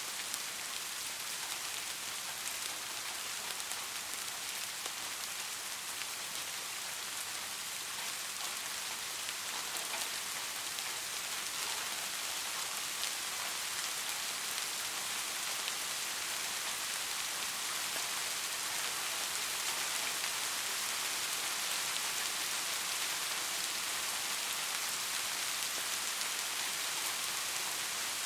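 Steady, gentle rain falling on a surface: an even hiss with scattered drop ticks.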